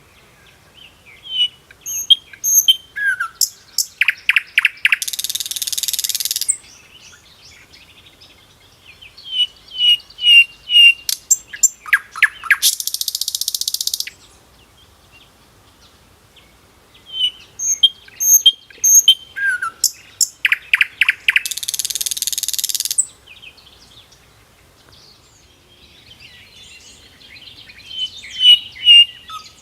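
A songbird singing repeated phrases: a run of short high chirps and quick notes that ends in a long buzzy trill, each phrase coming about every eight seconds with quiet gaps between.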